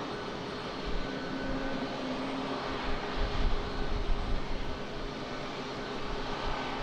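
Jet airliner engines running, a steady rush with a faint whine held at an even level.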